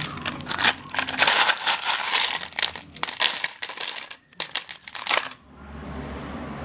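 Rapid run of light metallic clinks and rattles for about five seconds, then a steady low rumble.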